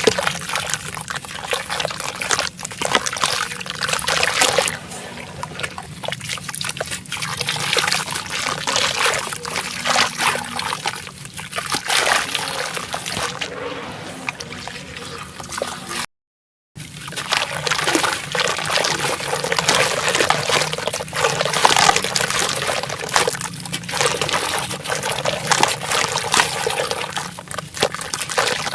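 Dry sand-and-cement blocks dipped into water, crumbling apart with a dense crackling fizz and sloshing water. The sound drops out completely for about half a second just past halfway, then resumes.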